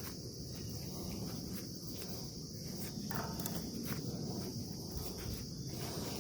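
Steady high-pitched chorus of insects over a low, even rumble of outdoor background noise, with a few faint ticks.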